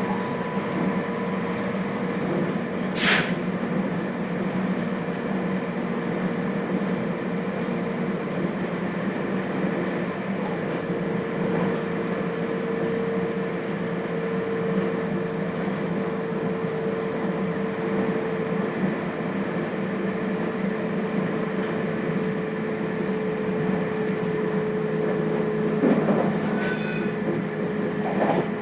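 Running sound inside the motor car of a JR Hokkaido 721 series electric train: steady wheel-and-rail rumble under a constant electrical hum with several held tones. A brief sharp noise cuts through about three seconds in, and a few short higher tones come near the end.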